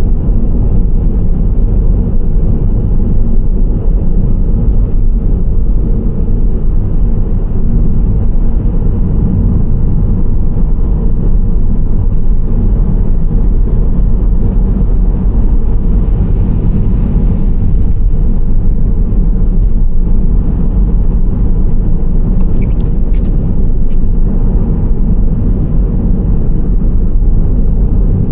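Nissan Serena C25 minivan driving at steady speed: a continuous low road and engine rumble that does not change. A few brief, faint high clicks come through about three-quarters of the way in.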